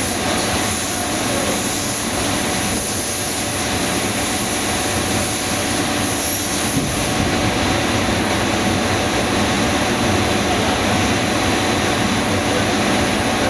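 Steady, continuous machine noise, an even rushing hum with no pauses or changes.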